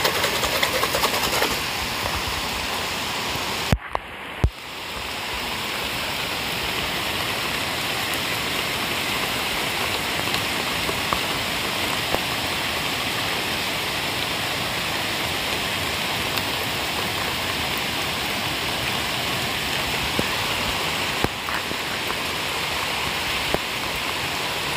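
Rain falling steadily on the water of a fish pond: an even hiss. About four seconds in, the sound drops out briefly with a couple of clicks.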